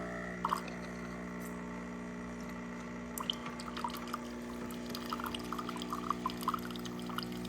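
Terra Kaffe TK1 automatic espresso machine running its rinse cycle: a steady pump hum with water trickling and dripping, the drips more frequent in the second half.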